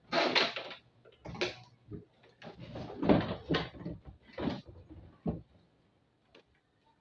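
Irregular knocks, scrapes and clatter of washing machine parts being handled during disassembly, stopping about five and a half seconds in.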